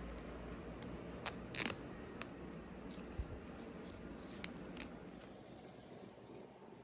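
A few short, sharp clicks and taps from something being handled, the loudest a quick cluster about a second and a half in, over a low steady hum.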